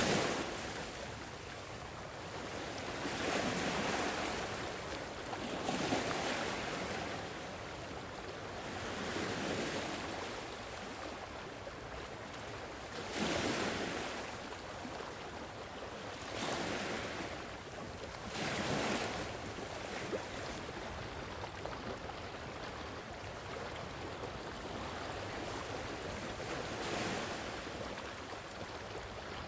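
Sea waves washing in and breaking, swelling and fading every few seconds over a steady hiss of the sea.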